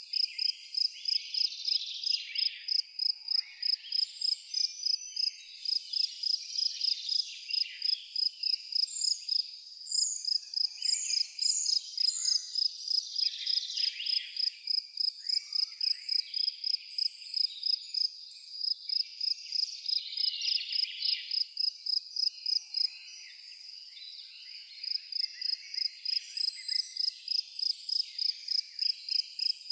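Outdoor nature ambience: a high-pitched chirp repeating steadily about three times a second, breaking off briefly about four-fifths of the way in, over a wash of insect chirping. A few short, quick bird calls come about a third of the way in.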